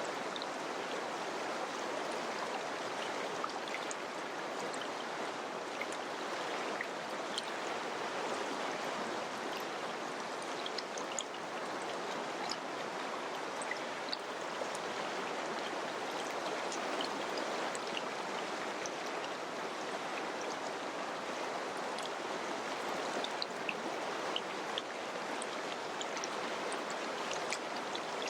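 River water flowing: a steady, even rush with small splashes ticking through it.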